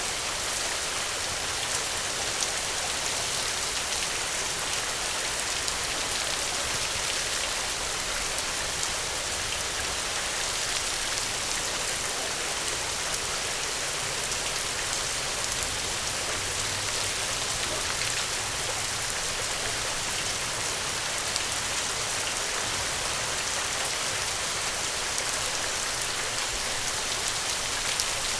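Steady rain falling: an even hiss with many small drop ticks, holding at one level throughout.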